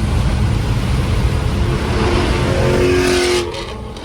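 Straight-piped Camaro ZL1's supercharged V8 exhaust under hard acceleration, loud and rising in pitch, then dropping away sharply about three and a half seconds in.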